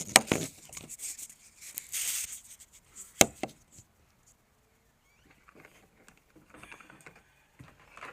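Scissors and electrical wires being handled: a sharp snip near the start and another about three seconds in, rustling between them, then faint fiddling with the wires.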